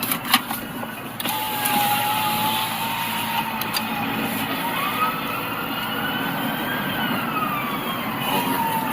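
Emergency vehicle siren wailing, its pitch slowly rising and then falling, over steady traffic noise.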